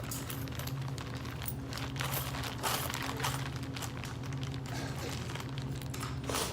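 Loose coins clinking and shuffling in a hand as change is counted, in short scattered clicks over a steady low hum.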